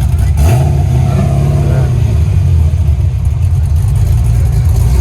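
Muscle car's engine running loud and low, revving up about half a second in and holding the higher speed briefly before settling.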